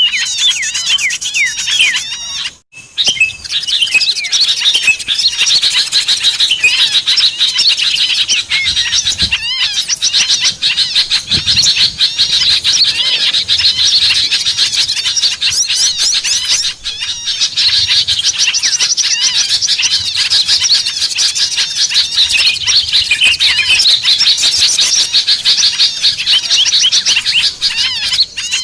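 Dense, busy chorus of many small songbirds chirping and twittering over one another, as in a bird-trapping lure recording meant to draw wild small birds down. There is a brief break about two and a half seconds in.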